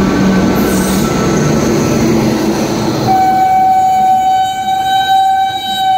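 Express passenger train running through a station at speed without stopping, its wheels and coaches rushing past. About three seconds in, a long steady train horn blast starts and is held to the end.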